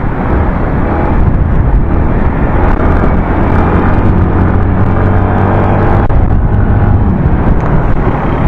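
Motorcycle riding noise heard through an action camera's helmet-mounted external mic: steady wind buffeting on the mic with the engine running underneath as a low hum, the wind still coming through despite a homemade anti-wind cover.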